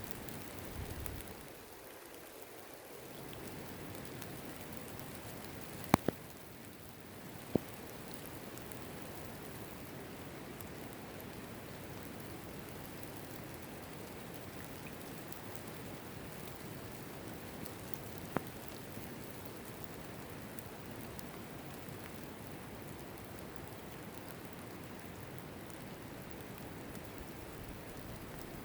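Steady rainfall, an even hiss. It is broken by a handful of sharp, loud ticks, which are the loudest sounds: two in quick succession, another a moment later, and a single one much later.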